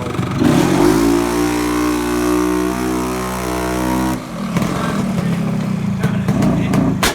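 An engine revs up about half a second in and holds steady at high revs, then drops back to a lower, rougher run about four seconds in. A sharp knock comes just before the end.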